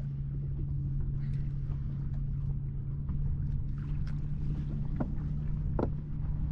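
A boat's motor running steadily with a low hum and rumble, and two short knocks near the end.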